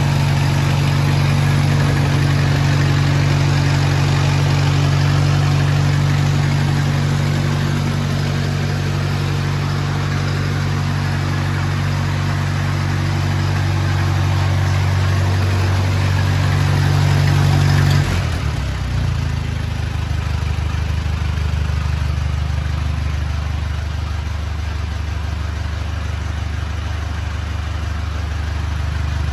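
1949 Farmall Cub's four-cylinder flathead engine running steadily. About two-thirds of the way through its speed drops suddenly and it settles into a slower, lower idle.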